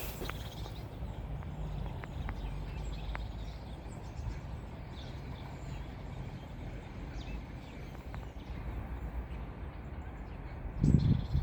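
Outdoor ambience: a steady low rumble with faint, scattered bird chirps and a few light clicks, then a louder, low-pitched sound near the end.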